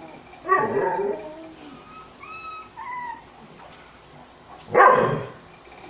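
A dog barking twice, once about half a second in and again near the end, with thin high whines between the barks.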